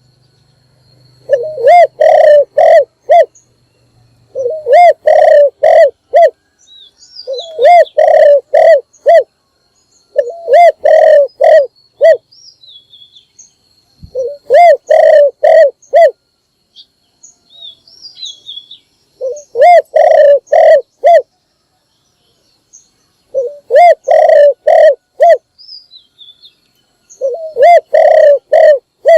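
Spotted dove cooing: eight short phrases of four or five rounded coos each, repeating every few seconds, with faint high chirps from small birds in between.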